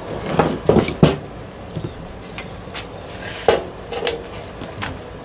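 Pieces of scrap metal from a dismantled ceiling fan clanking and knocking as they are handled: a quick cluster of knocks in the first second, then two more knocks at about three and a half and four seconds.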